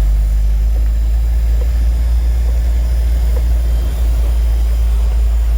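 Jeep's engine and road noise heard from inside the cabin: a loud, steady low drone.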